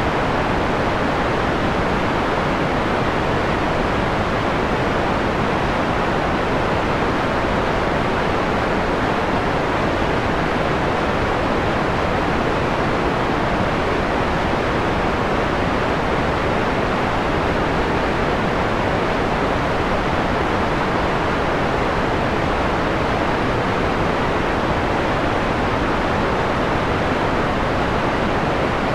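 Steady artificial white noise, filtered so that the high end is rolled off and the hiss sits mostly in the low and middle range. It is a stage of noise being dimmed from a bright tone toward a mellow one.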